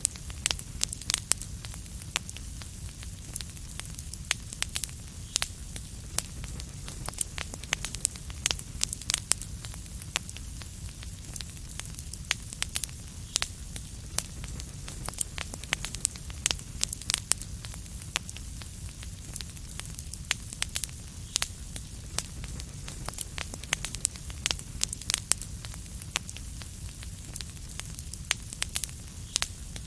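Wood fire crackling steadily: many sharp irregular pops and snaps over a low rumble and a soft hiss.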